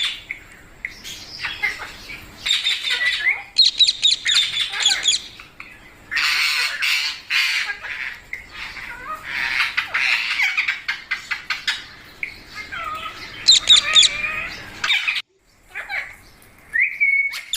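Pet parrot squawking and screeching over and over, with quick chattering runs of calls in between and a short clear whistled call near the end.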